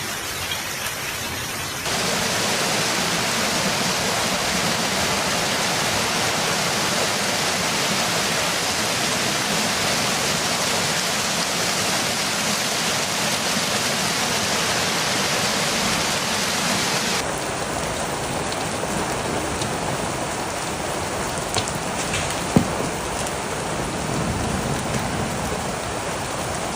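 Heavy rain pouring steadily in a storm, heard in successive recordings that change abruptly about two seconds in and again about seventeen seconds in. There is one sharp knock a little after twenty-two seconds.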